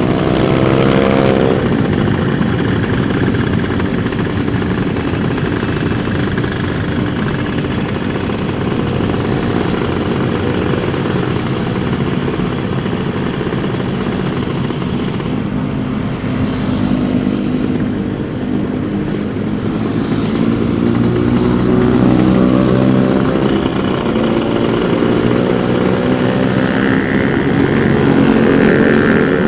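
A 150 cc two-stroke Kawasaki motorcycle engine running under way. It revs up sharply just after the start, runs at a fairly steady pitch through the middle, then climbs in pitch again over the last third as it accelerates.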